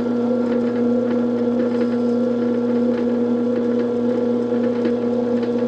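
Electric drill running steadily with a steady motor hum as a center drill bit bores a pilot hole in a galvanized steel pipe.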